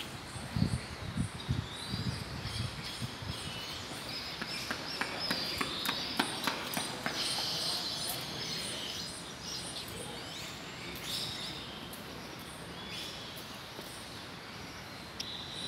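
Birds calling and chirping over a steady high repeated chirp, with a few low thumps in the first few seconds.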